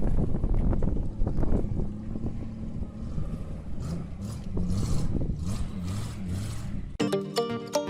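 A heavy vehicle's engine running with a low rumble, with a few short knocks in the first couple of seconds and patches of hiss later. About seven seconds in it cuts abruptly to music.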